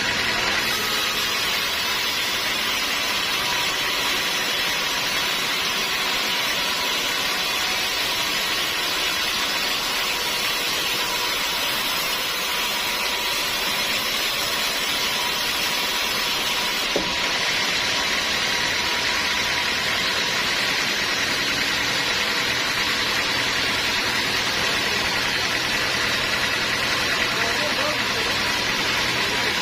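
Sawmill machinery running steadily: a constant engine-like hum with several fixed tones over a hiss. A single sharp click sounds about seventeen seconds in.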